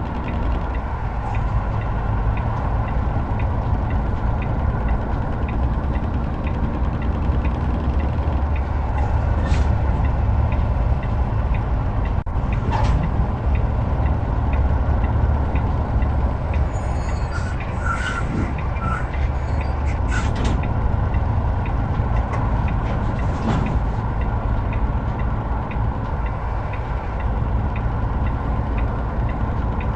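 Heavy truck driving under load: a steady deep engine drone mixed with road rumble, with a few short clicks and rattles now and then.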